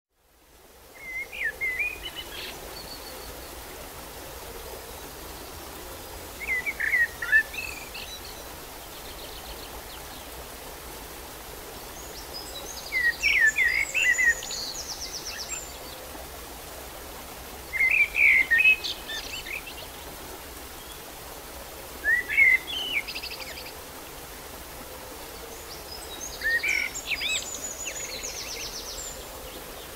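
A songbird singing short phrases of quick whistled notes, one phrase every four to five seconds, over a steady background hiss.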